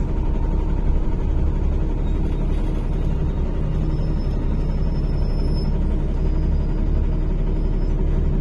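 Inside a NefAZ-5299 city bus under way: a steady low rumble of the engine and road noise.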